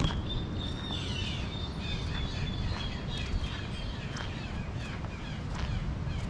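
Birds chirping in short repeated calls, with a thin, high, steady tone that runs until about four seconds in, over a low background rumble.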